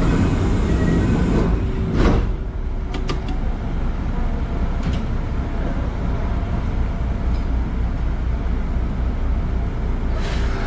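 Steady hum of a stopped electric commuter train's equipment heard from the driver's cab, with a sudden loud burst of noise about two seconds in and a few light clicks just after.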